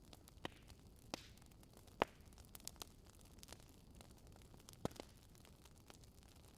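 Wood fire in a fireplace crackling: faint steady hiss with irregular sharp pops, the loudest about two seconds in and another near five seconds.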